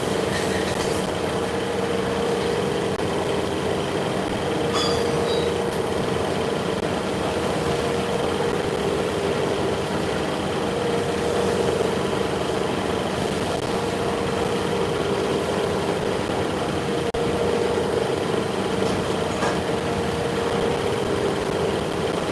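Machine-shop machinery running steadily, a continuous mechanical noise with a hum that swells and fades about every six seconds.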